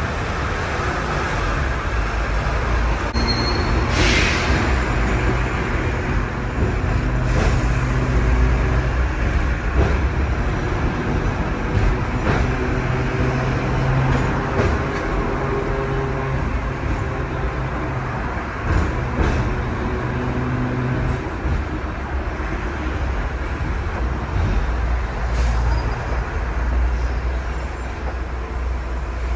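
Engine hum and road noise heard from the upper deck of a double-decker bus in motion, the engine note shifting every few seconds. A short hiss of air comes about four seconds in.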